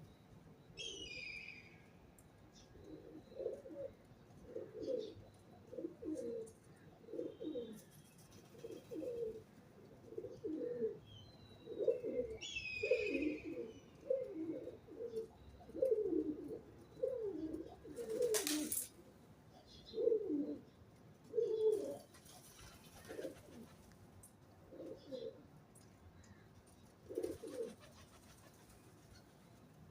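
Pigeon cooing in a long series of low notes, about one a second, fading out near the end. Two brief higher chirps from another small bird come near the start and about halfway, with a sharp click just after halfway.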